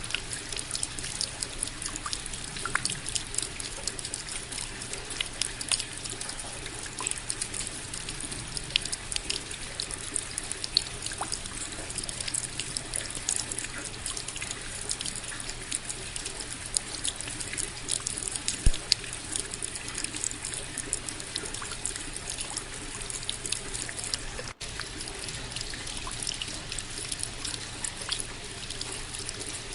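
Steady rain, with many small drops ticking and pattering close by over an even wash of falling water. It cuts out for an instant about 25 seconds in.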